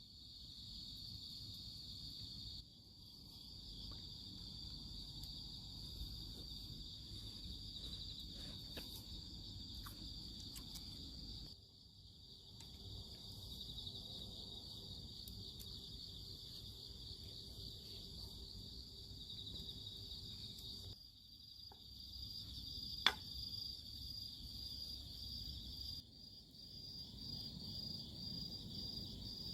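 Insects, crickets among them, chirping in a steady high trill that pulses in places. A few faint clicks are scattered through it, and one sharp snap stands out about 23 seconds in.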